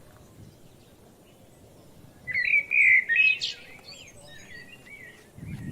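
Songbird singing: a loud run of quick chirping notes about two seconds in, followed by softer scattered chirps over faint outdoor background noise.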